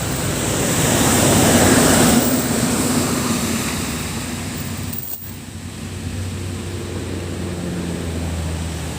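A vehicle passes on the road, its tyre and engine noise swelling to a peak about 2 s in and then fading away. After a brief break about 5 s in, a steady low engine hum runs on.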